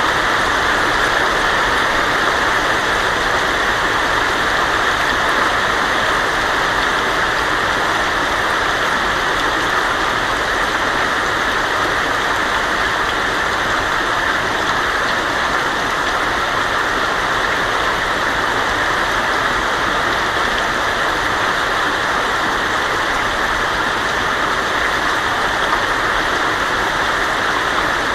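Heavy rain falling steadily on a tin roof, an even hiss with no thunder claps.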